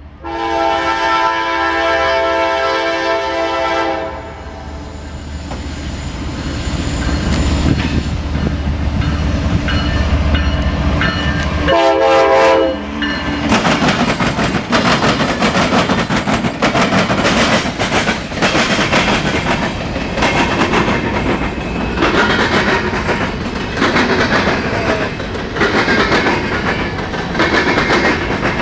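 Freight train passing: the diesel locomotive's air horn sounds a long blast, then the locomotives rumble by and the horn gives a short second blast about twelve seconds in. After that the freight cars roll past with a steady clickety-clack of wheels on the rails.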